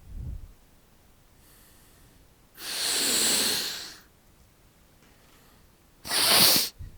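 A person's long, noisy snort-like breath lasting over a second about midway, then a short, sharp sneeze near the end.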